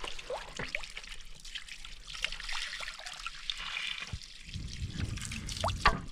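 Spring water trickling and dribbling, with small splashes and one louder, sharp sound near the end.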